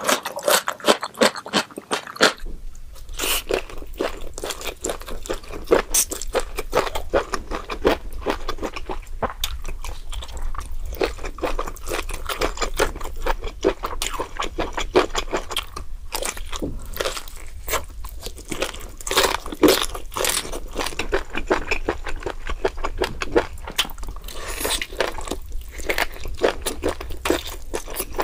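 Close-miked crunching and chewing of spicy chicken feet: a dense run of crackly bites and wet mouth sounds. A low steady hum starts under it about two seconds in.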